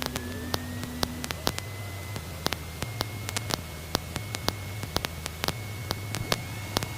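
Static crackle and irregular clicks, several a second, heard through a light aircraft's radio and intercom system, over a steady high whine and a low engine drone.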